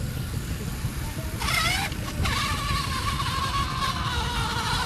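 An engine running with a fast, even low beat, joined about a second and a half in by a wavering high tone that holds to the end.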